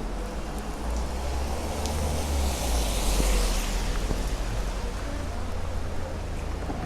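Thunder rumbling over steady rain, swelling about a second in and loudest around the middle before easing off.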